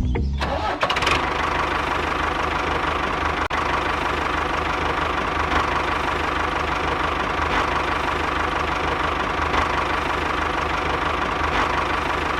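Small electric motor of a miniature DIY machine running steadily with an even whirring buzz.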